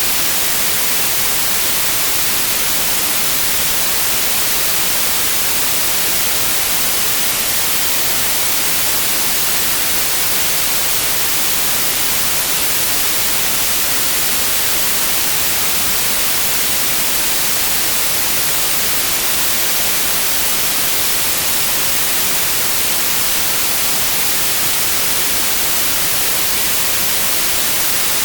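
Synthetic white noise: a steady, even hiss with no changes or events, brightest in the highs.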